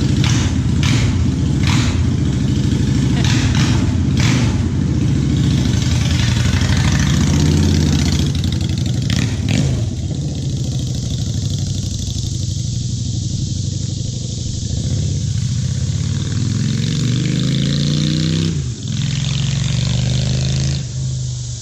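Honda Shadow Phantom's V-twin engine through an aftermarket custom exhaust with the baffle in, running and being revved. Its pitch rises and falls a few times, then climbs steadily for a couple of seconds before dropping sharply near the end.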